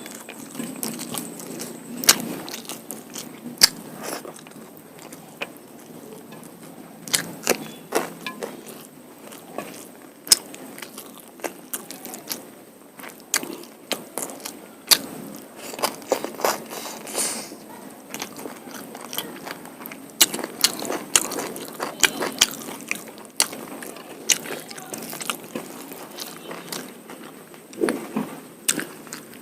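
Close-up eating sounds: a person chewing and biting mouthfuls of mutton curry with rice, with wet mouth clicks, smacks and short crunches coming irregularly.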